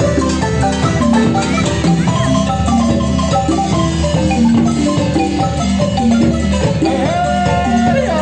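Chiapas marimba ensemble playing a lively dance tune: rapid struck wooden-bar notes over a steady bass line. A short gliding tone sounds near the end.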